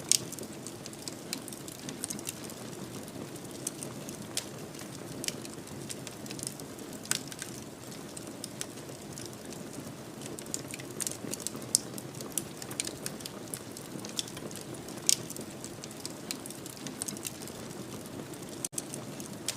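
Fireplace fire crackling: a steady low rustle of flame with many scattered sharp pops, a few of them louder, and one momentary gap near the end.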